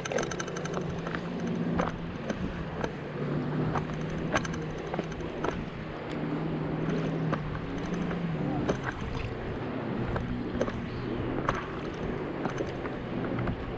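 Steady low motor hum of a boat on the lake, stepping slightly lower in pitch about two-thirds of the way through, with scattered light clicks and knocks from a kayak and fishing gear being handled.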